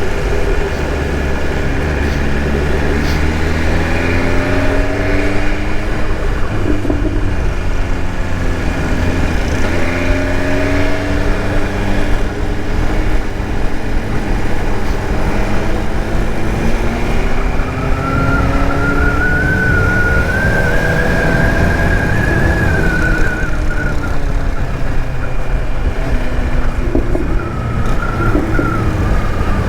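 BMW S1000RR's inline-four engine under way, its pitch rising several times as it pulls up through the revs and then dropping back, over a heavy low rumble of riding noise. A wavering higher tone sounds in the second half.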